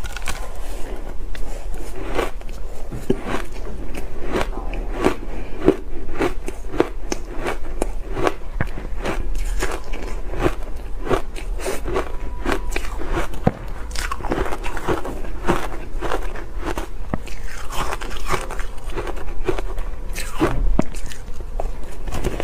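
Close-miked biting and chewing of ice: a steady run of sharp crunches and crackles, several a second.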